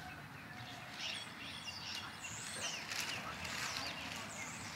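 Small songbirds chirping and singing, with quick repeated high notes from more than one bird.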